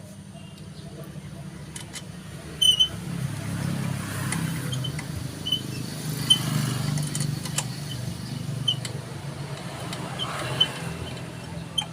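A motor vehicle's engine running with a low, steady rumble that grows louder a few seconds in. Short metallic clinks, like tools on metal, sound several times over it.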